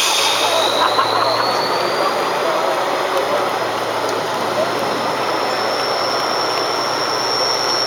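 Competition truck engine running under load with a steady low hum, topped by a high whine that climbs in pitch over the first few seconds and then holds.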